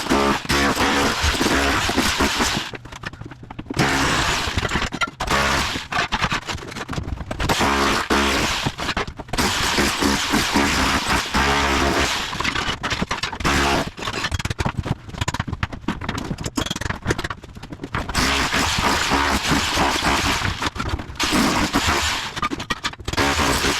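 Bosch Bulldog Max SDS-Plus rotary hammer with a wide tile chisel bit, chiselling up bathroom floor tile and cement board with a fast hammering rattle and the scrape and crack of breaking tile. It runs in long bursts, pausing briefly about three seconds in and again near the eighteen-second mark.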